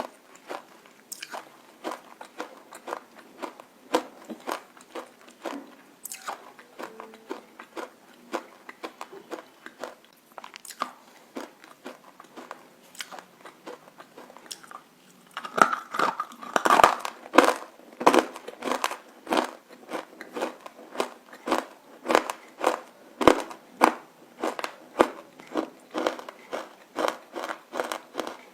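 Close-up crunching of roasted nakumatt, baked edible clay, being bitten and chewed, a continuous run of sharp crisp cracks. It gets louder about halfway through, with crunches coming about twice a second.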